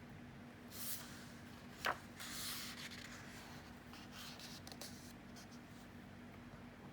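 Paper rustling as a book page is handled and turned: a short rustle, a sharp tap about two seconds in, then a longer rustle and a few faint ones, over a faint steady hum.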